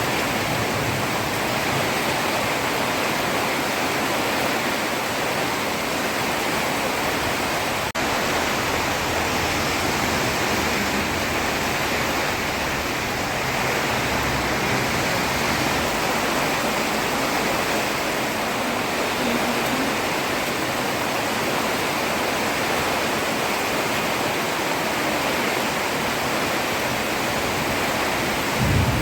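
Heavy rain falling steadily on a road, an even, unbroken hiss.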